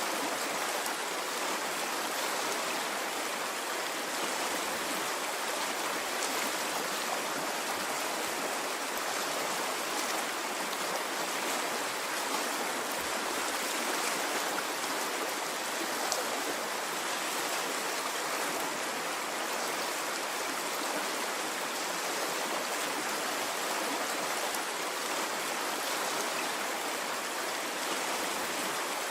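Running water of a stream, flowing steadily as an even wash of noise with no rises or falls.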